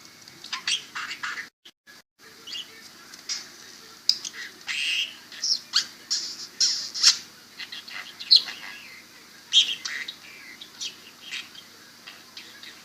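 Pet budgie chattering with a stream of short, sharp chirps, clicks and squawks. The sound drops out briefly about two seconds in.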